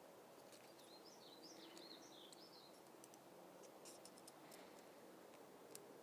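Near silence, with a faint bird warbling for about two seconds and a few faint clicks.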